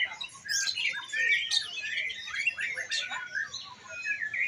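Several caged songbirds singing at once, a dense tangle of fast overlapping chirps and whistled phrases.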